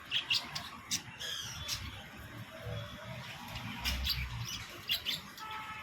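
Pet budgerigars chirping and chattering in short, scattered high calls, with a brief warbling trill about a second in.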